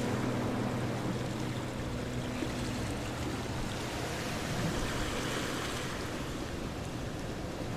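Steady rushing water noise. A few held low notes of background music die away about two and a half seconds in.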